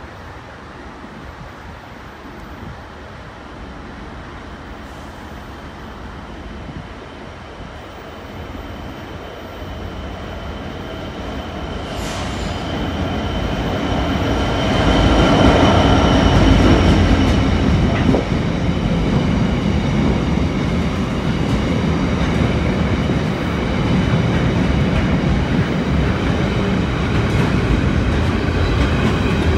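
Class 66 diesel freight locomotive with a two-stroke V12 engine approaching and passing at speed, growing louder to a peak about halfway through. A long train of container wagons follows, rolling past with steady wheel and rail noise.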